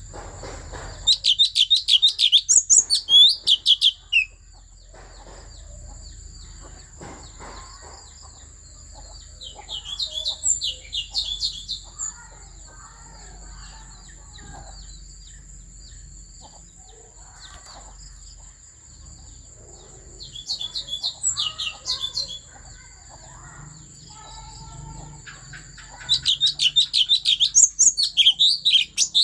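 Thanh tước songbird singing in four bursts of rapid repeated high notes, the first and last bursts longest and loudest.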